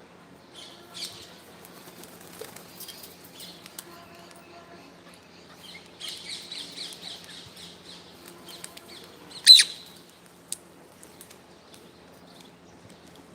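A parrot calling: scattered chirps, a quick run of repeated calls past the middle, then one loud, sharp squawk about two-thirds of the way through.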